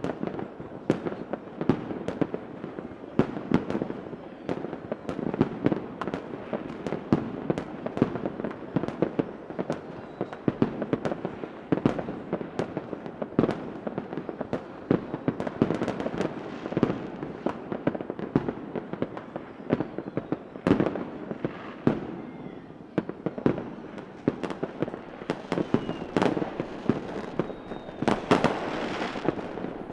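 Fireworks going off continuously: many sharp bangs and pops over a steady crackle, with a few faint whistles near the end.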